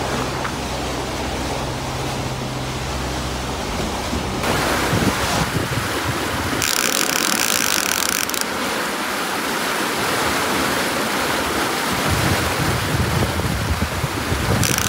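Wind and sea rushing past a sailing boat under way, a steady, loud rush with wind buffeting the microphone. A low steady hum sits under it for the first four seconds.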